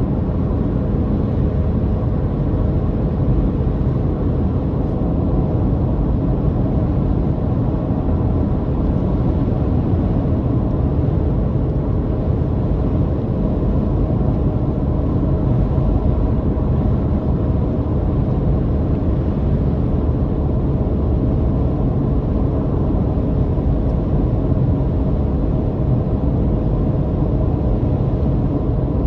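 Car driving at a steady speed: a constant engine drone and road rumble, with a few faint steady tones over it.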